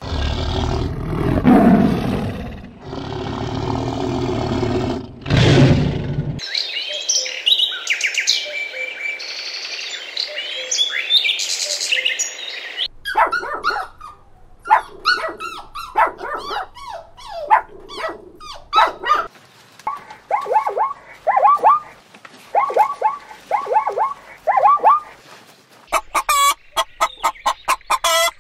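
A string of animal calls: a tiger's deep growls for about six seconds, then high chirping, then small dogs yapping in short falling calls, ending with the fast rattling calls of domestic fowl.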